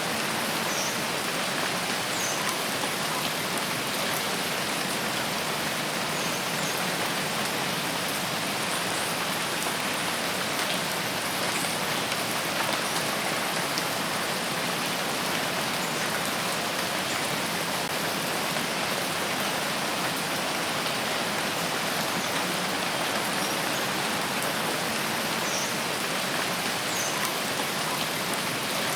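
Steady rain falling in a rainforest, an even hiss of drops on foliage and ground with no change in strength. A few faint, short high chirps come through the rain now and then.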